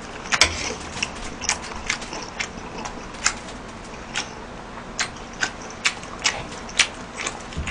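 A person chewing food close to the microphone: irregular sharp wet mouth clicks, one or two a second, over a low background.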